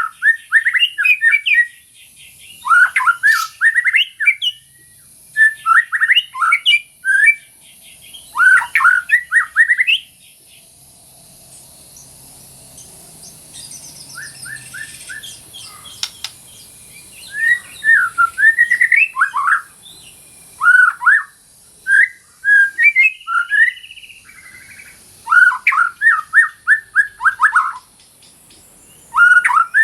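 White-rumped shama singing in bursts of quick, sharply falling whistled notes, phrase after phrase, with a pause of several seconds in the middle before the song resumes.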